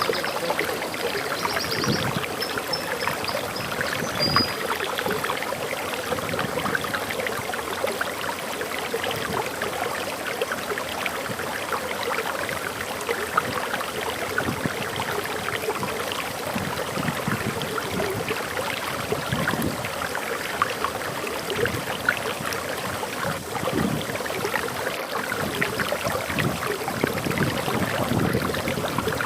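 Waterfall: water pouring and splashing steadily, a dense even rush with fine crackle. A bird gives a few short high chirps in the first few seconds.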